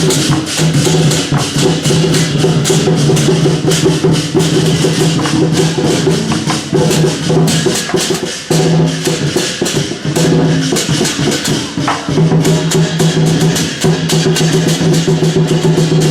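Loud procession music: a held low-pitched tone that breaks off briefly a few times, over dense, rapid percussion strikes.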